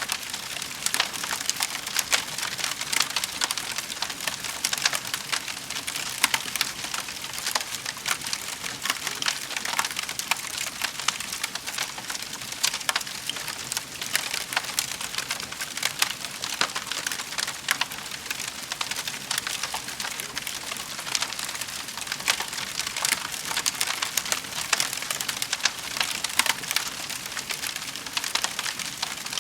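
Wood fire crackling steadily in a fireplace, a dense run of small sharp pops and snaps over a hiss of burning.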